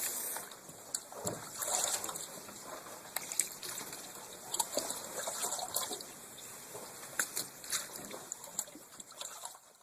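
Water trickling and dripping off a surface in scattered, irregular drops and small splashes, fading toward the end.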